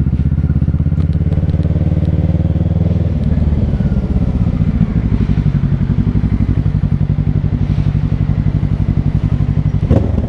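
Kawasaki Ninja 650's parallel-twin engine, with an aftermarket Shark SRC-4 full exhaust, running at low revs with a steady pulsing beat. The deepest rumble eases about three seconds in, and there is a brief knock near the end.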